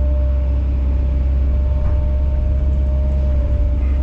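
Kobelco SK210 excavator's diesel engine running steadily: a deep, even drone with a steady higher tone over it.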